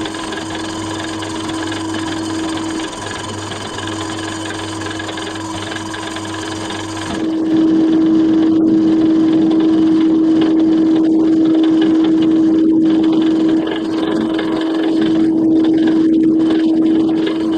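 An electric motor running steadily with a constant humming tone, growing louder about seven seconds in.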